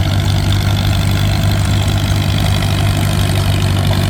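1948 McCormick W4 tractor's four-cylinder engine idling steadily.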